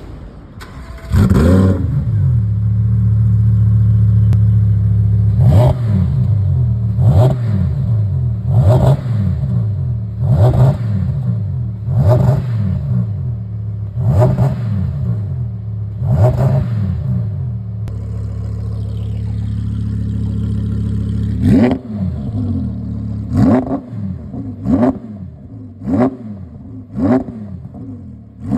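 Audi R8 V10's 5.2-litre V10 through a TFL Italy valvetronic full exhaust, starting with a loud flare about a second in and settling to idle, then revved in short blips about every second and a half. It idles steadily for a few seconds, then is blipped again in a quicker run of revs near the end.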